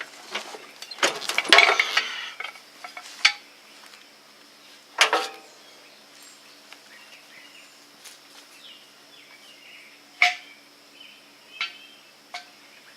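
Metal clanks and rattles of a jack stand being taken out from under a lifted riding mower: a flurry of knocks in the first two seconds, then single clanks spaced several seconds apart.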